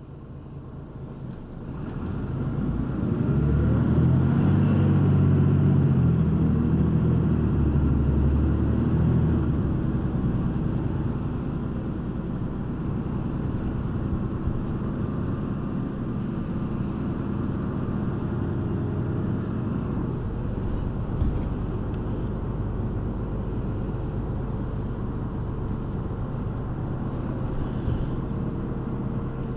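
City bus engine heard from inside the cabin, rising in pitch and loudness as the bus accelerates for the first few seconds, then easing off about nine seconds in to a steady rumble with road noise while it cruises.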